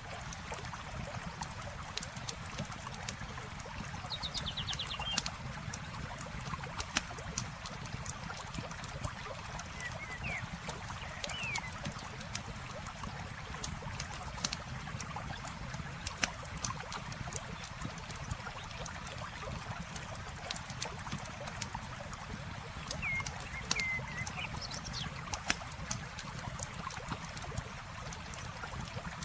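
Campfire crackling with scattered sharp pops, over a steady rush of flowing water. A few short bird chirps come a few seconds in, around the middle, and again near the end.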